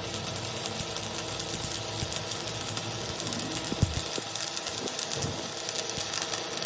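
A machine running steadily with a rapid, even rhythm, with one sharp knock a little before the middle.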